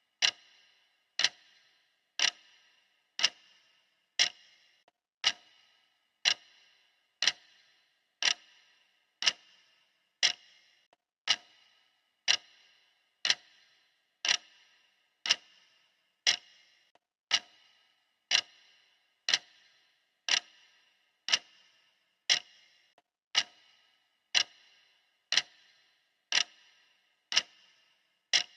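Clock ticking steadily, about one sharp tick a second, as the running tick of a countdown timer.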